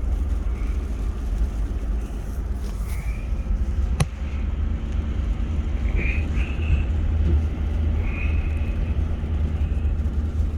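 Car driving slowly through floodwater on the road: a steady low engine and road rumble with a faint hum, and one sharp click about four seconds in.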